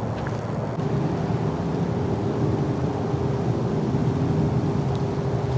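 Steady low drone of distant motor traffic, with a constant hum running through it; it gets a little louder about a second in.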